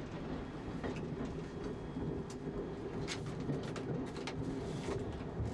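London Underground A Stock electric train heard from the cab while running: a steady rumble with irregular sharp clicks and knocks from the wheels and track.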